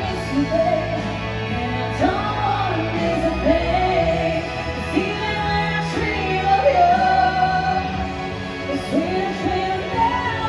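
A singer performing live with musical accompaniment, the voice holding long notes that slide up and down over a steady low bass.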